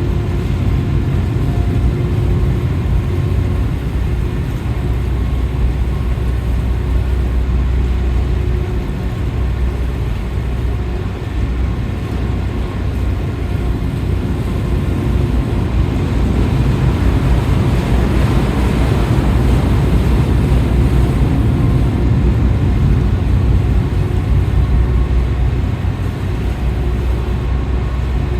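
Car ferry's engines and machinery running with a steady low rumble and a few faint steady tones, with a broader hiss swelling for several seconds past the middle.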